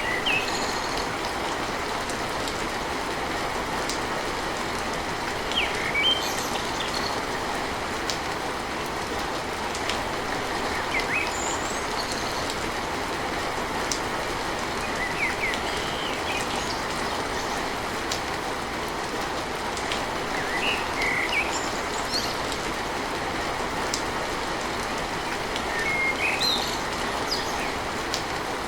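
Steady rain drumming on a tin roof, an even rushing patter, with short high bird chirps breaking through every few seconds.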